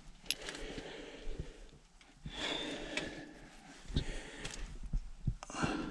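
A person breathing heavily close to the microphone, three long breaths, with a few small clicks of parts being handled.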